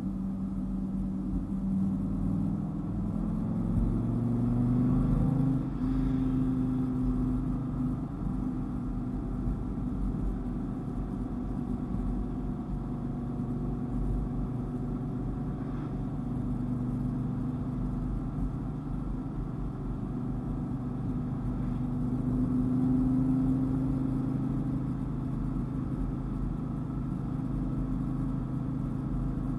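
Dodge Viper GTS's V10 engine pulling up through the revs for the first few seconds, then holding a steady drone at cruising speed over a low road rumble, with a slight rise again about three-quarters of the way through.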